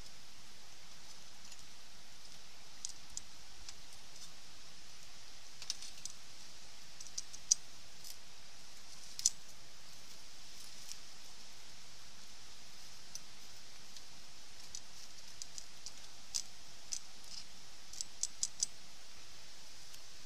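Wood campfire crackling: irregular sharp pops and snaps, clustered about 18 seconds in, over a steady soft hiss.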